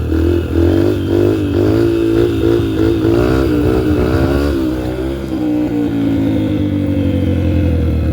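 2003 Yamaha TTR125L's single-cylinder four-stroke engine revving hard and unevenly during a wheelie attempt, its pitch wavering up and down for about five seconds, then easing off and running steadier, falling slightly toward the end.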